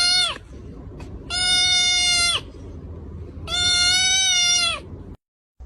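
A cat yowling in long, level-pitched cries: the end of one, then two more, each a little over a second long and dropping in pitch at the very end. A steady low rumble runs underneath and cuts out suddenly near the end.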